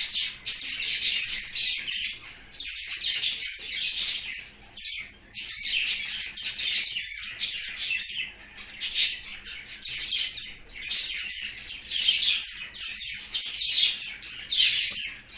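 Small birds chirping continuously, many high overlapping chirps coming in clusters about every second.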